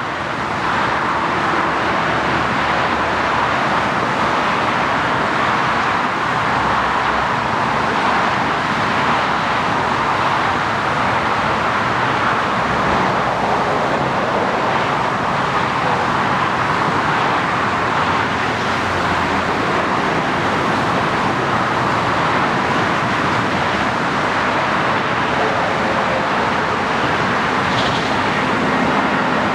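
Jet engines of an Airbus A320-200 running with a steady roar.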